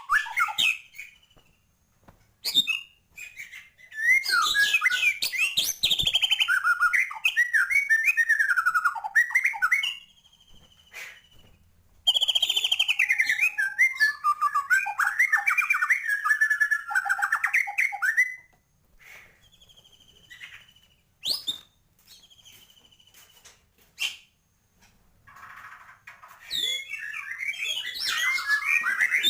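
White-rumped shama singing hard in long bursts of rapid, varied whistled phrases, its song full of mimicked calls of other birds. Short single whistled notes and pauses come between the bursts.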